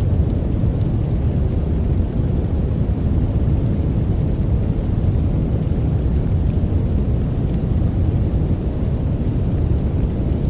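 A steady, deep noise track for sleep, an even hiss with most of its weight in the low end and little above the midrange.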